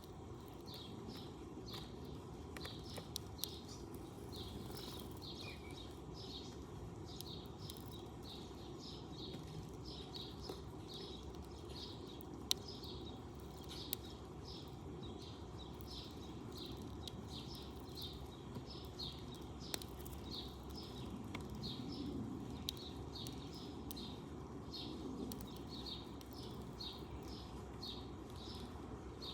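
A sparrow chirping steadily over and over, about two to three short chirps a second, over a low background rumble. A few sharp clicks break in here and there.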